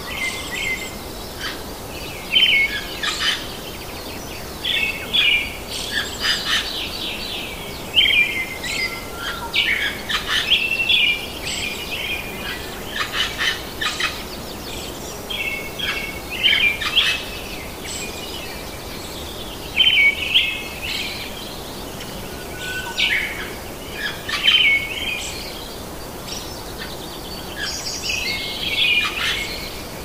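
Birds chirping and calling in short clusters every second or two, over a steady background hiss.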